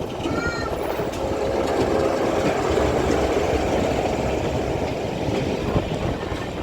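Train running on the rails, heard from on board: a steady rumble of the wheels and carriage, with a brief high squeal about half a second in.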